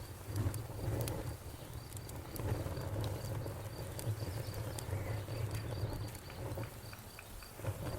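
Campfire burning, with a low steady rumble and scattered sharp crackles and pops from the burning wood. A faint, evenly pulsed high chirping runs underneath.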